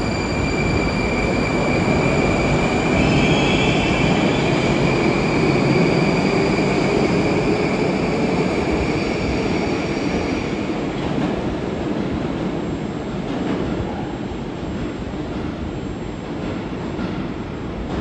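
Moscow metro train rumbling along the station track with a steady high whine. The train is loudest in the first half, and the whine and rumble fade after about ten seconds.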